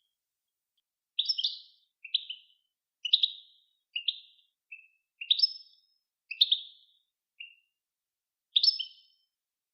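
A songbird singing on a song-tutoring recording: nine short, chirpy phrases, about one a second, each a quick run of rising notes, with silence between.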